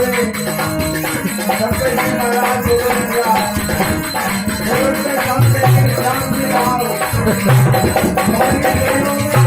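Rajasthani devotional folk music: dholak drumming with jingling hand percussion under a pitched melody, amplified through a sound system.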